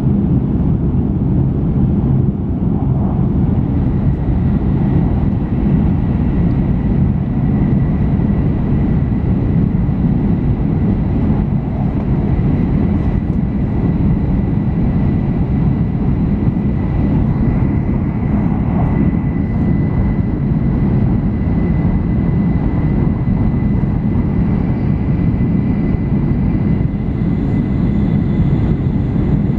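Cabin noise inside an N700 series (7000 番台) Shinkansen running at high speed: a steady low rumble of wheels on rail, running gear and air, with a faint thin high-pitched tone joining about four seconds in.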